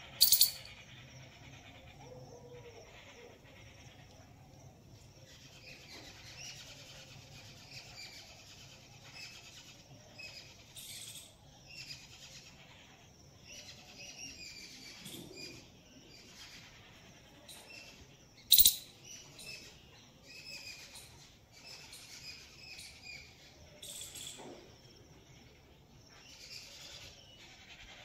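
Birds chirping, with short calls scattered throughout. Two sudden loud clicks, one just after the start and one about 18 seconds in.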